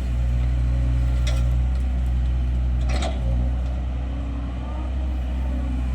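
Kobelco excavator's diesel engine running steadily as it works, with two brief clanks, about a second in and about three seconds in.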